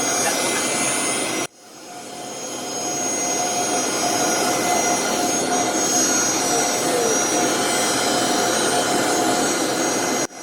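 Private jet's turbofan engines running, a steady rush with a high whine over it. The sound drops out suddenly about a second and a half in and swells back up, and cuts briefly again near the end.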